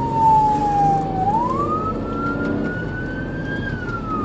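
Police car siren on a slow wail: the pitch falls, rises again about a second in, and starts to fall near the end. Vehicle engine and road noise run beneath it.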